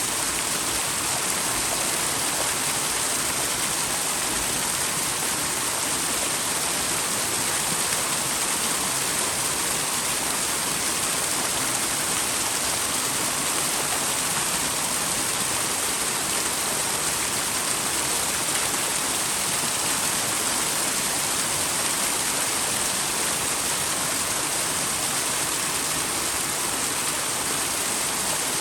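Small waterfall splashing steadily into a mountain stream, a continuous rushing of falling water.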